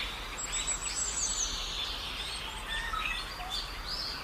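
Small birds chirping and calling over a steady outdoor background hiss.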